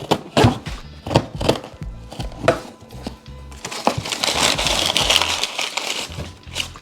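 Background music with a steady bass beat, over handling noise from unpacking small items: a run of clicks and knocks, then several seconds of packaging rustling or tearing from about halfway in.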